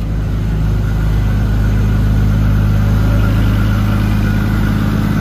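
Nissan RB25DET NEO turbocharged straight-six idling steadily at its operating temperature of around 80 °C, with the electric radiator fans running.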